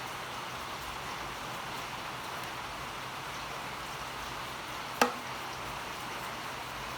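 Steady hiss with a single sharp click about five seconds in, followed by a brief ringing tail.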